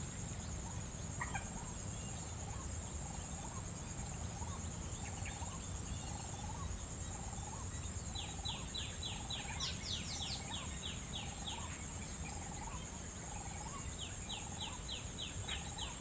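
Birds calling: a short hooked note repeated a little more than once a second, joined about halfway and again near the end by quick runs of high, falling notes, about three a second. Under them runs a steady high insect drone.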